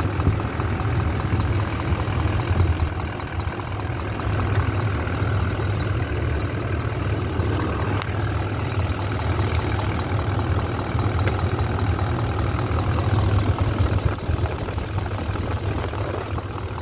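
Toyota Land Cruiser V8 diesel engine idling steadily, a low, even running sound.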